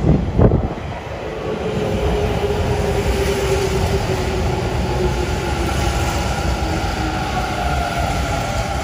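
Hanshin Railway electric commuter train running along the platform close by, with steady wheel-on-rail noise and a motor whine that falls slowly in pitch. A short loud burst right at the start.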